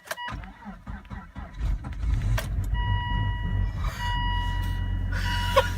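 A 2001 Volvo V70 XC's turbocharged five-cylinder engine cranking briefly in the cold and catching about two seconds in, then running steadily, a cold start after months of sitting with a weak battery. A steady electronic warning tone sounds twice in the second half.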